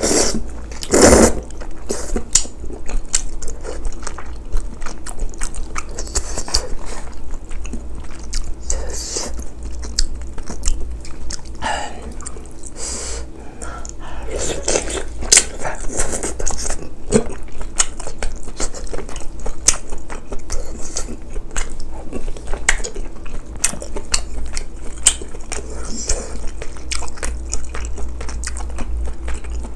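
A person chewing and biting spicy braised chicken and glass noodles close to the microphone, with many small mouth clicks throughout.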